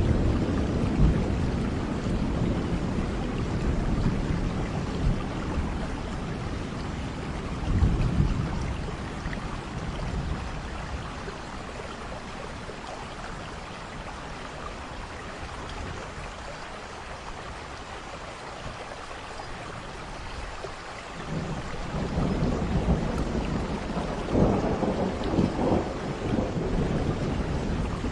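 Steady heavy rain with rolling thunder. Thunder rumbles at the start and dies away, with one more swell about eight seconds in. The rain then carries on with little thunder until the rumbling rolls back in over the last third.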